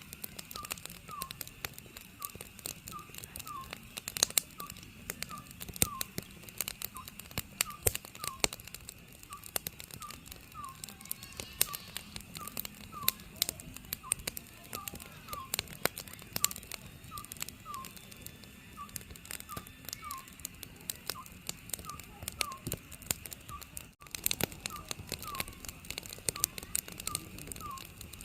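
Wood fire crackling with sharp pops and snaps, while an Oriental scops owl repeats its short whistled call notes over and over in the background.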